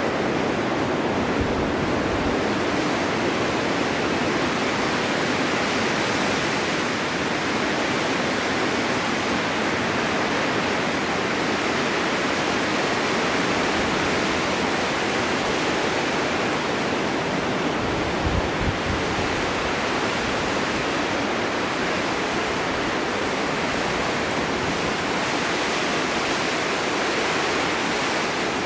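Snowstorm wind blowing in a steady rush with slow, mild swells, and a brief low rumble of a gust on the microphone about two-thirds of the way through.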